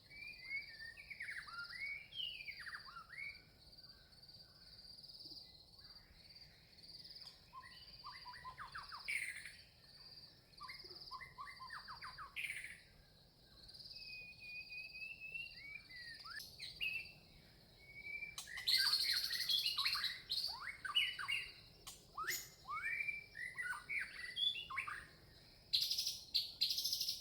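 Red-vented bulbuls chirping, many short sweeping notes overlapping, over a steady high-pitched pulsing background; the calling gets louder and busier about two-thirds of the way through.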